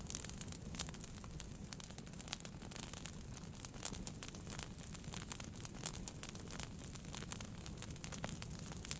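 Wood fire burning in a fireplace, crackling and popping continually over a low steady rumble of the flames.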